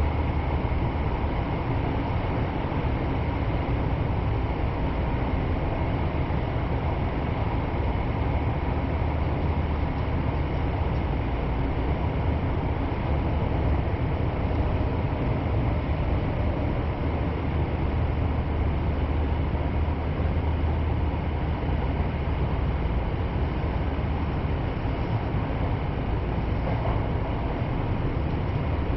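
Kyoto Municipal Subway Karasuma Line train running, heard from inside the car as a steady rumble of wheels on rail with a faint steady whine above it.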